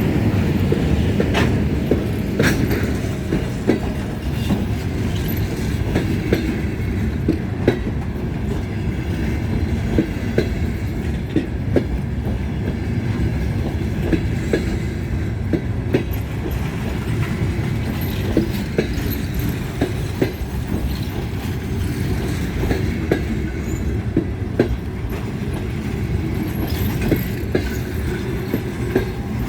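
Passenger coaches of an arriving train rolling past, a continuous low rumble with irregular sharp clacks of wheels over rail joints.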